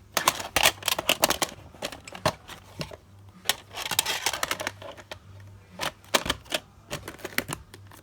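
VHS cassette and its plastic case being handled: a run of sharp plastic clicks and clacks, a brief rustle about halfway, then more clicks.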